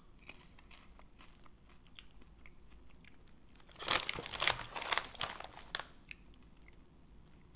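Popcorn being bitten and chewed close by: a few crisp crunches about four seconds in, after a quiet stretch of faint clicks.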